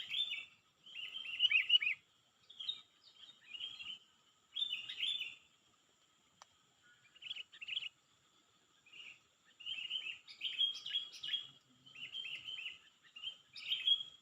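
A songbird singing in short, rapid chirpy phrases, one every second or so, with brief pauses, over a faint steady high-pitched drone.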